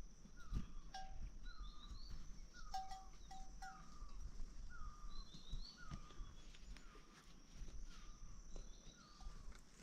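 Faint outdoor ambience of repeated short chirping animal calls, about one every 0.7 seconds, with higher chirps now and then and a steady high whine behind them.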